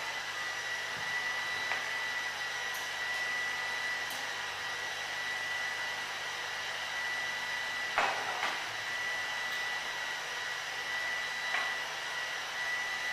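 Leister Sonara S1 hand-held hot air tool blowing steadily: an even rushing hiss with a steady high-pitched whine, and a sharp click about eight seconds in.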